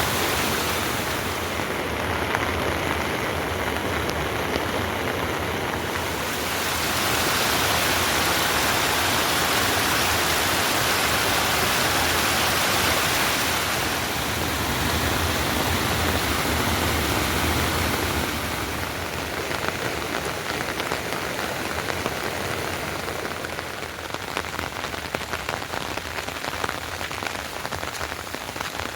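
Heavy rain falling steadily, a dense hiss that eases a little about two-thirds of the way through, with individual drops pattering on a surface more distinctly near the end.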